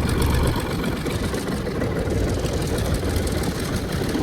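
Farm tractor engine running steadily with a fast, even low pulse.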